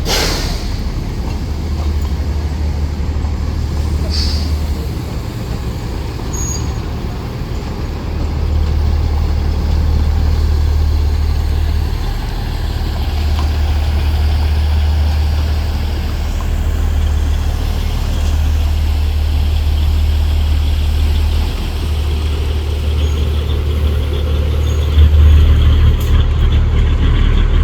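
Matheran Hill Railway narrow-gauge toy train running: a steady low rumble with a broad rushing noise, and a couple of sharp clicks in the first few seconds.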